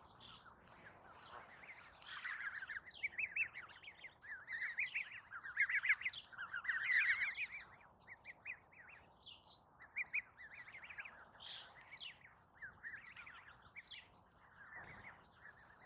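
Wild birds chirping, many short rapid calls overlapping, busiest and loudest in the first half and thinning out afterwards.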